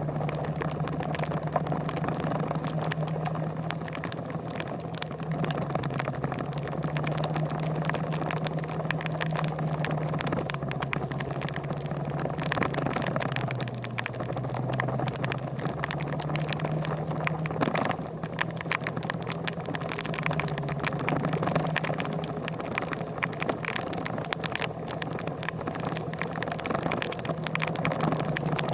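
Motorcycle engine running steadily, its pitch rising and falling slightly a few times, with frequent sharp ticks and crackles over it.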